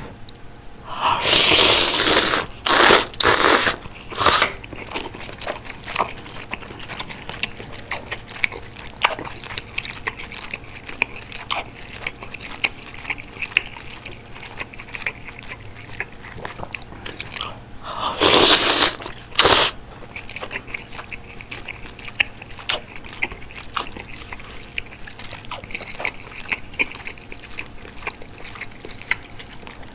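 Close-miked eating of bulgogi hot pot: steady chewing and biting with many small wet clicks, broken by a few loud, longer rushing bursts near the start and again a little past the middle.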